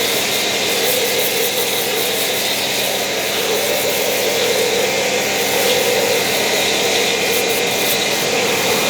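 A power tool running steadily, with a continuous grinding or rubbing noise over a steady hum.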